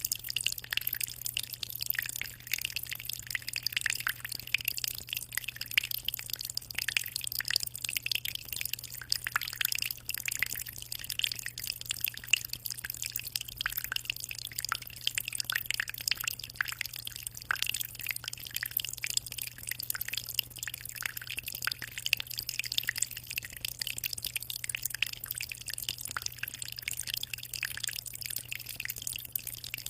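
Aquarium water trickling and splashing without a break: a dense, irregular patter of small drips and splashes. A steady low hum runs beneath it.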